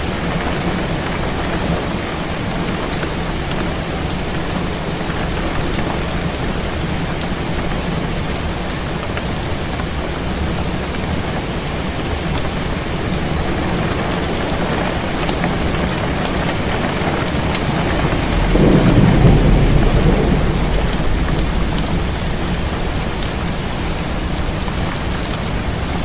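Heavy rain falling steadily. A low rumble of thunder swells about two-thirds of the way in and fades over a few seconds.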